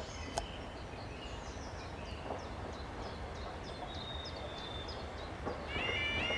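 Small birds chirping, a run of short quick calls over faint open-air background noise. Near the end a louder high-pitched tune of stepping notes starts up.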